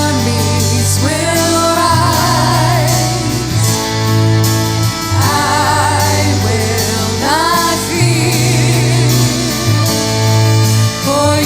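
Worship song: a singer holding wavering notes with vibrato over a band with steady sustained bass notes that change every second or two.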